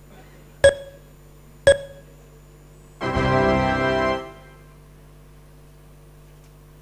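Audience-response polling software's sound effects: countdown ticks about once a second, three of them, then about three seconds in a short sustained musical chord lasting just over a second that signals voting has closed.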